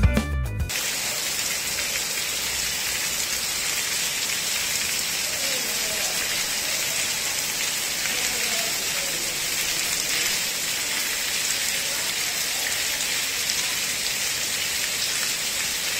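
Steady rain falling on a flooded street, an even hiss of water.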